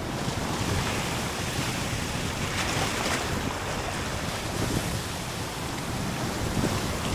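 Open sea waves washing, with wind buffeting the microphone: a steady rush that swells louder and hissier about three seconds in.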